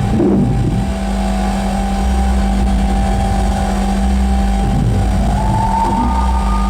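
Live noise music: a loud, sustained electronic drone with a steady low hum over a deep rumble and a held higher tone, joined near the end by a tone that slides up in pitch.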